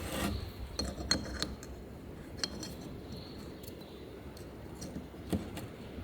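A few scattered light metallic clicks and clinks of tools and engine parts being handled, over a low steady background rumble.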